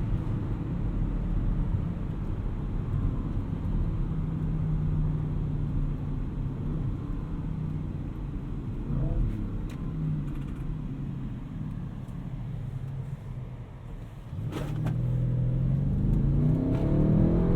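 Audi RS6 Avant's twin-turbo V8 heard from inside the cabin, running under steady load, then easing off to a lull about three quarters of the way through. After a brief click it accelerates hard, the engine note climbing in pitch and getting louder.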